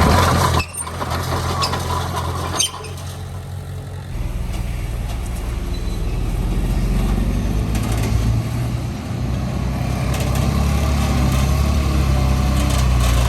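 Diesel engines of heavy earthmoving machinery (a bulldozer and dump trucks) running steadily under load. The sound changes abruptly twice in the first three seconds.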